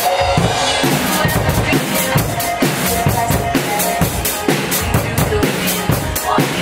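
Drum kit coming in at the start and playing a steady groove of bass drum, snare and cymbals over a pop backing track.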